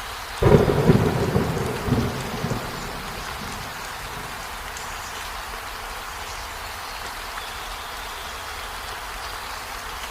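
Steady rain falling, with a sudden clap of thunder about half a second in that rumbles and dies away within about two seconds.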